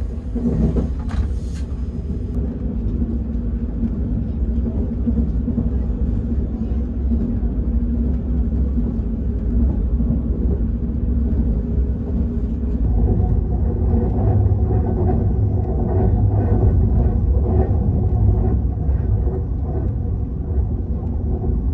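Steady low rumble of a moving train, heard from inside the passenger car. It gets a little louder and rougher about two-thirds of the way through.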